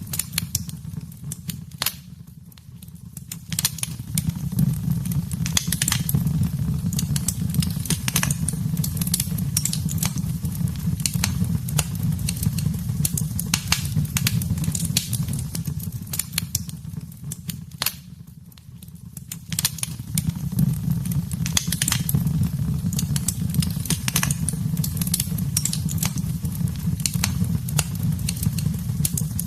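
Wood fire in a fireplace burning with a steady low rumble and frequent sharp crackles and pops, easing off twice briefly before picking up again.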